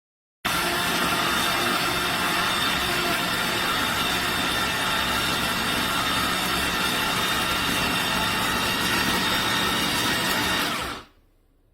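Electric juicer motor running steadily with a whine of several steady tones; it starts abruptly and shuts off near the end.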